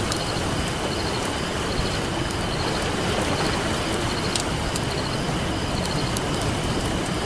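Crackling campfire over the steady wash of ocean surf: sharp crackles and pops scattered through a continuous rushing noise, one pop louder about four seconds in. A faint high chirping repeats steadily in the background.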